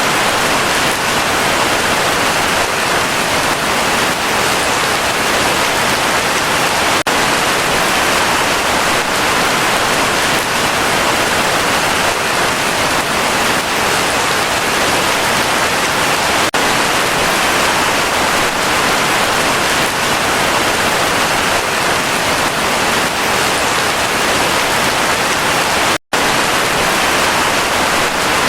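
Heavy rain falling steadily, a dense unbroken hiss. It cuts out for a split second near the end and resumes at once.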